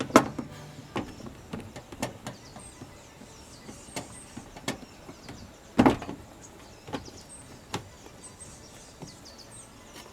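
Irregular sharp knocks and clicks, the loudest just after the start and about six seconds in, with small birds chirping in the background.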